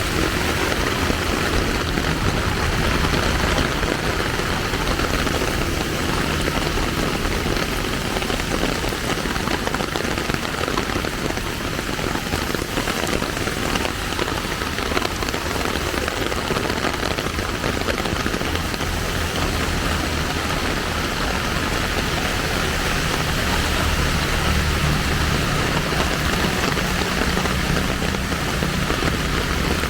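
Steady rain falling on the street, with a low engine hum coming up in the last few seconds as a vehicle approaches.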